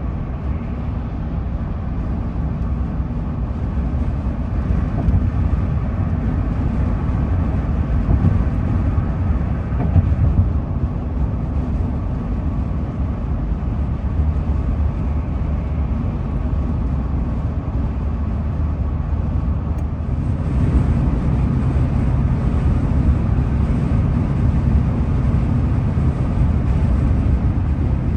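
Steady rumble and road noise of a vehicle driving along, with a hiss that rises a little about twenty seconds in.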